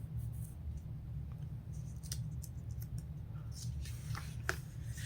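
Faint scattered ticks and rustles of a paper catalog being handled, over a steady low electrical hum.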